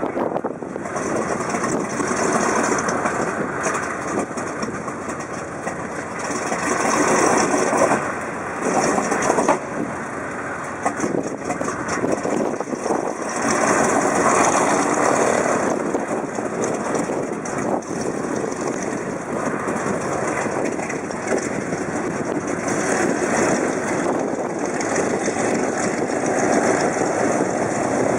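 A vintage warbird's piston aircraft engine running on the ground, its steady sound swelling and easing.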